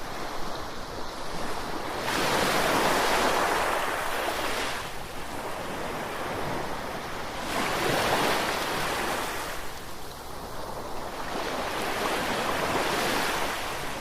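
Ocean surf: waves break and wash in three times, each swelling and fading over a few seconds, about one every five seconds.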